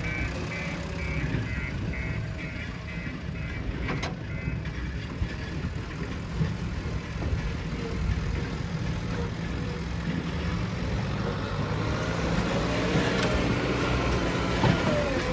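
Diesel engine of a JCB 3DX backhoe loader running steadily, with a reversing alarm beeping about three times a second for the first four seconds or so. Near the end the engine note rises and falls as the machine works.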